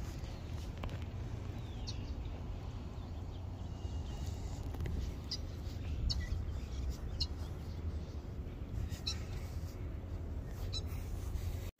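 Short high bird chirps, one every second or two, over a steady low rumble.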